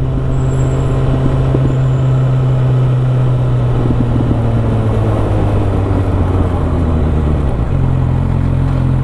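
Suzuki GSX650F inline-four engine running steadily under way, with a constant rushing noise underneath. The engine note shifts near the end.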